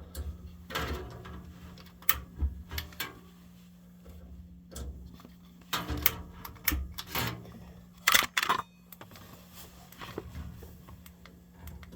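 Irregular clicks, taps and knocks of a gas furnace's controls being handled and turned, with the loudest cluster about eight seconds in, over a steady low hum.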